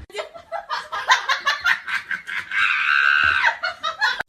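A person laughing in quick, rapid bursts, then a drawn-out high-pitched squeal for about a second, falling away at its end.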